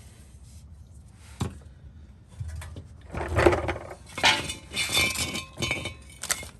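Metal hardware and tools clinking and clattering as they are handled: a single sharp click, then a run of irregular knocks and clinks, some of them ringing briefly.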